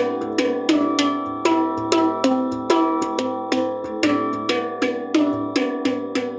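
Handpan played in a steady flowing pattern: notes struck about two to three times a second, each ringing on with clear overlapping tones.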